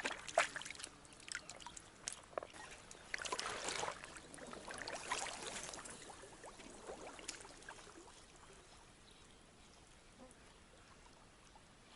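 Water splashing and trickling, mixed with sharp clicks, dying away after about seven seconds.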